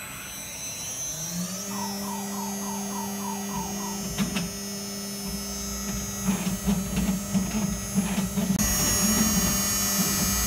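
ShopBot CNC router spindle spinning up and then running with a steady hum and whine, a quick row of short chirps as the gantry moves, then an irregular fluttering from about six seconds in as the bit cuts into an apple.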